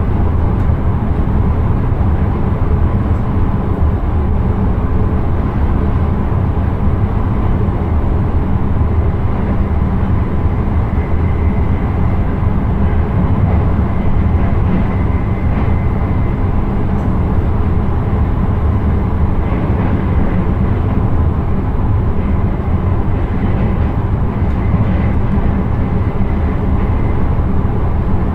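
Steady rumble of an intercity train running along the line, heard from the driver's cab.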